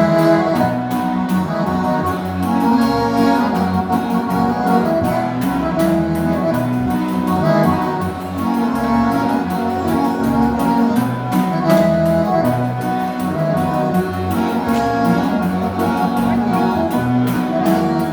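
Live gaúcho dance-band music: an instrumental break between verses, with accordion over guitar and a steady beat.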